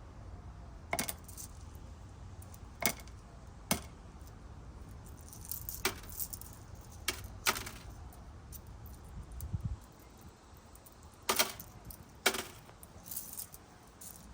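Small tumbled black opal stones clicking and clinking against each other and a container as they are picked out and set down one at a time. There are about eight sharp clinks at irregular intervals, with a small cluster near the end.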